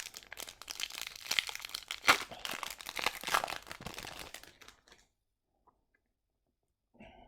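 A hockey card pack's wrapper being torn open and crinkled for about five seconds, with the sharpest rips about two and three and a half seconds in.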